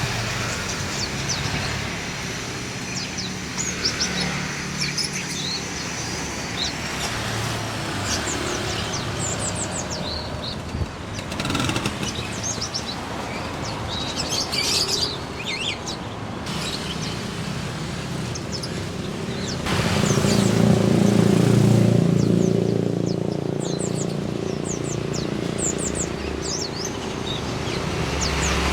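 A crowd of small caged songbirds chirping, with many short high chirps overlapping throughout. Road traffic rumbles underneath and swells louder about two-thirds of the way through.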